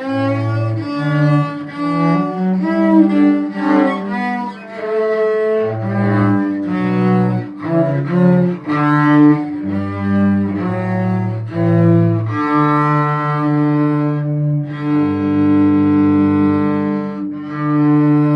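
Cello playing a hymn melody over a low bass line, bowed note by note. About twelve seconds in it settles into long held notes.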